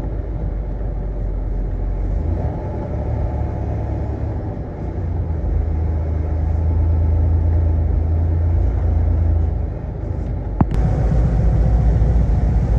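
Semi truck running, a steady low engine and road drone. A single sharp click comes about ten and a half seconds in, and the sound changes after it.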